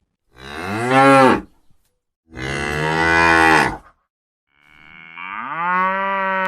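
A cow mooing: three long calls in a row with short pauses between them. The first call rises and falls in pitch, and the last rises, then holds steady before cutting off.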